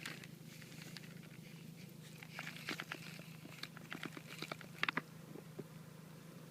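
Shiba Inu romping in snow: scattered crunches and clicks, thickest from about two seconds in until about five seconds, with a couple of sharp clicks near the end of that stretch. Under it runs a steady low hum from an idling vehicle engine.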